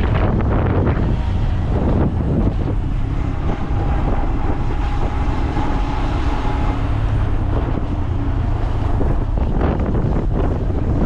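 Wind rushing over the microphone on a moving motorcycle, with the motorbike's engine running underneath.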